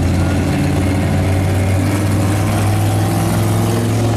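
Engines of show cars rolling at parade pace, a steady low rumble.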